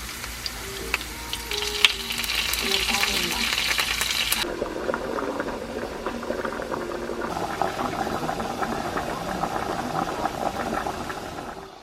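Kitchen cooking sounds: food sizzling in a pan while a utensil stirs it with small clicks and scrapes, changing abruptly about four and a half and seven seconds in as one clip cuts to the next.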